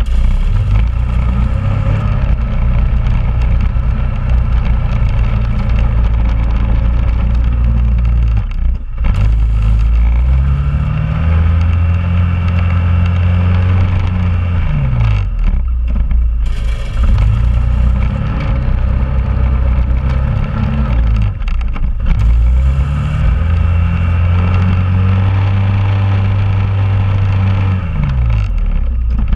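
2001 Honda Rubicon ATV's single-cylinder engine running while plowing snow, speeding up and slowing down twice.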